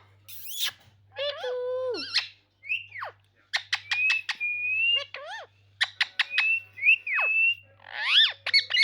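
Pet parrot calling: a quick run of sharp clicks mixed with short whistled notes, some sliding up and holding, others dropping steeply.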